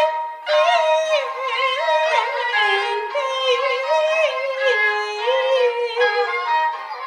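Peking opera aria singing: a high voice drawing out long, ornamented notes that waver and bend in pitch, over a Chinese fiddle accompaniment.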